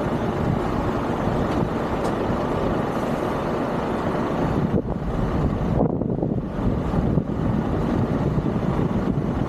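Heavy truck's diesel engine running steadily during slow maneuvering, a dense low rumble.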